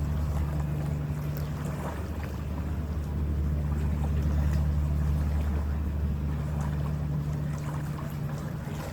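Steady low drone of a harbour ferry's engines heard from on board, with the rush of water and wind over it.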